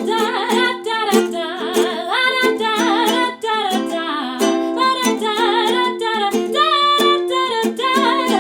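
Ukulele strummed in a steady rhythm, with a wordless, wavering melody line over the chords.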